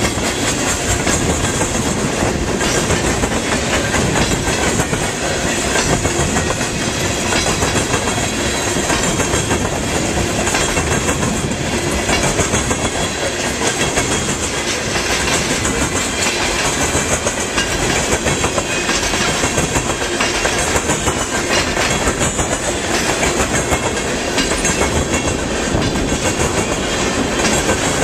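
Freight train of tank cars and a covered hopper rolling past, its wheels clattering steadily over the rails.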